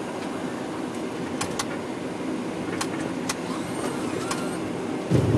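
Steady low rumble of a Boeing 737-800 on its landing rollout, heard from the flight deck, with a few sharp clicks and rattles. Near the end a louder low rumble surges in.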